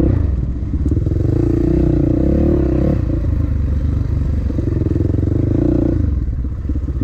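Dirt bike engine revving up twice, then dropping back to a lower, even putter near the end.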